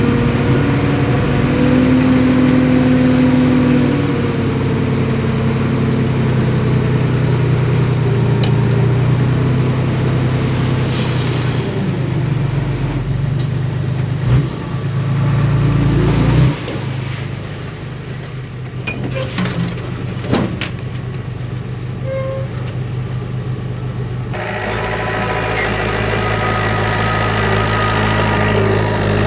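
Heavy diesel earth-moving machinery running with a steady engine note. The engine drops back about halfway through, a few sharp metallic knocks follow, and it builds up again near the end.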